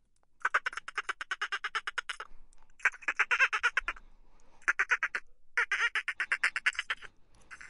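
Dolphin chattering: rapid trains of clicks at about ten pulses a second, in five bursts of one to two seconds each with short pauses between.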